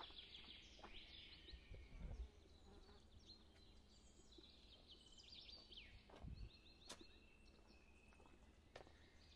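Near silence with faint outdoor ambience: small birds chirping quietly on and off. There are a couple of soft low thumps and a brief click.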